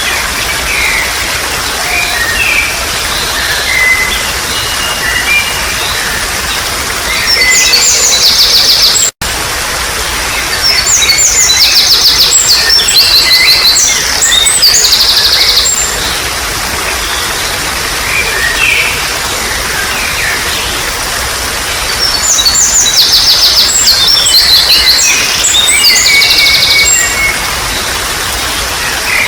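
Steady trickle of running water under wild birds singing. Three loud spells of fast, high trilling song stand out among scattered shorter chirps. The sound cuts out completely for an instant about nine seconds in.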